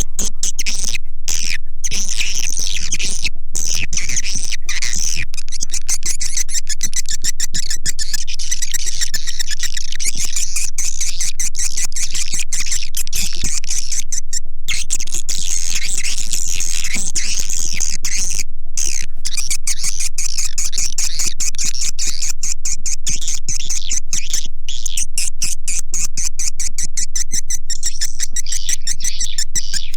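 Swiftlet lure recording: swiftlets chattering and twittering in a dense, unbroken stream of rapid high clicks and chirps, held at a constant loud level.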